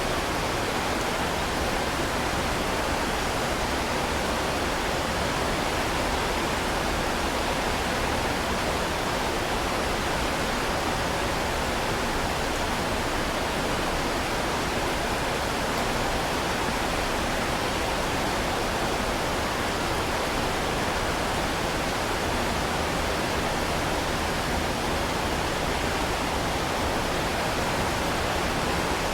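Heavy rain falling as a dense, even hiss, with no single drops, thunder or gusts standing out.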